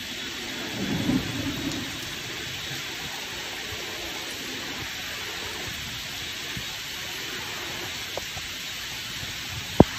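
Heavy rain falling steadily, an even hiss, with a brief low rumble about a second in and a single sharp click just before the end.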